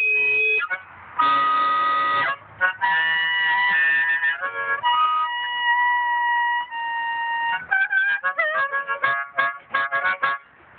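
Harmonica played solo: several long held notes, then a run of quick short notes over the last few seconds.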